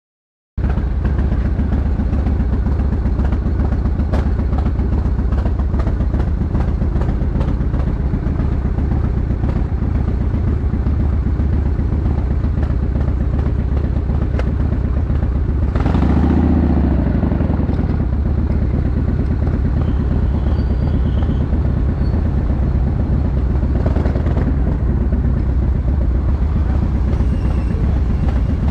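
1965 GMC pickup truck driving down the road: a steady engine and road rumble that cuts in half a second in. Around sixteen seconds the engine note briefly swells and rises, then settles back.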